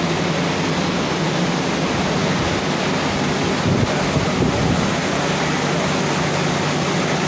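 Induced-draft cooling tower running: a steady rush of water falling through the tower, with the hum of its fan motors underneath.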